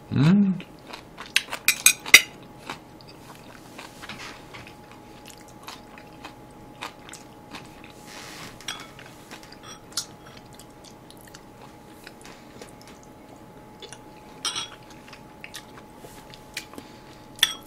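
Close-up chewing and biting of Korean side dishes, with a short hummed voice sound at the start. About one to two seconds in comes a quick run of sharp clicks and crunches, and scattered small clicks follow, typical of steel chopsticks tapping the plate.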